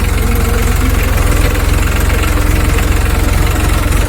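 Diesel engine of heavy machinery running steadily at idle, with a fast, even low throb.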